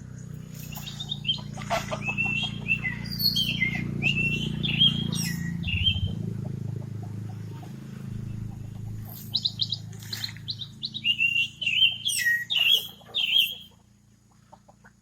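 A songbird singing quick, warbling chirpy phrases in two bouts with a pause between them, over a low steady hum that fades out near the end.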